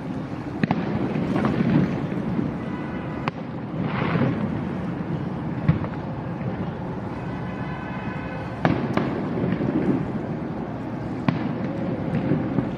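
Fireworks display: sharp shell bursts every two to three seconds, each followed by rumbling and crackling.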